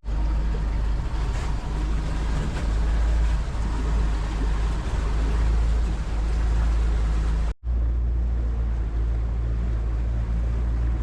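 Motorboat under way: the outboard motor running steadily under a heavy low rumble of wind and rushing water. The sound cuts out for an instant about two-thirds of the way through and resumes unchanged.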